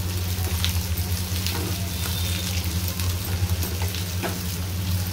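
Sliced onions frying in hot oil in a kadhai, with a steady sizzle, as a wooden spatula stirs them and scrapes and knocks against the pan a few times. A steady low hum runs underneath.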